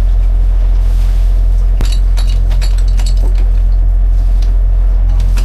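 Sailing-yacht deck hardware clinking as the spinnaker is rigged: a cluster of sharp metallic clinks about two to three seconds in, over a loud, steady low rumble.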